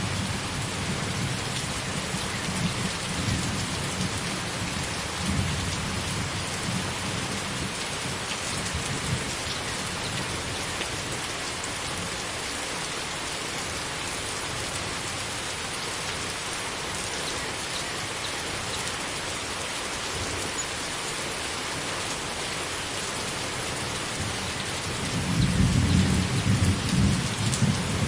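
Thunderstorm: steady heavy rain with rolling thunder rumbling low at the start, dying away, then a louder roll of thunder near the end.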